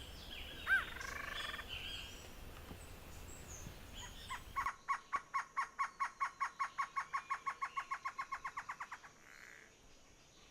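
Wild birds calling with assorted chirps. After an abrupt change in the background, a bird gives a fast, even series of pitched notes, about eight a second, for some four seconds before it stops.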